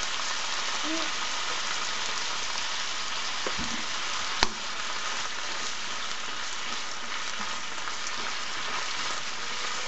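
Sliced pork belly and green pepper sizzling steadily in a hot frying pan as they are stirred with a wooden spatula. One sharp click about four and a half seconds in.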